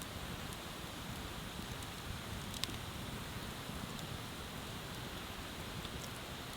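Wood bonfire crackling with a few scattered sharp pops, one louder about two and a half seconds in, over a steady hiss of running water.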